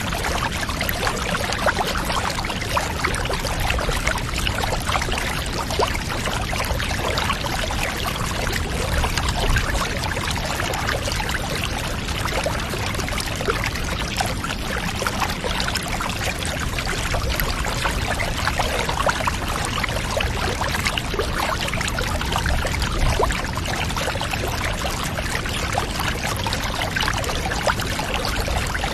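Water running and trickling steadily into a bath, an even, unbroken splashing flow.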